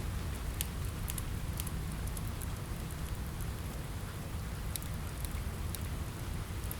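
Steady rain on a window mixed with a crackling wood fire: an even low rumble and hiss, with scattered sharp pops and crackles.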